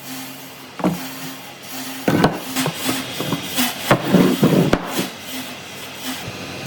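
A series of irregular knocks and taps, most of them bunched between about two and five seconds in, over a faint steady hum.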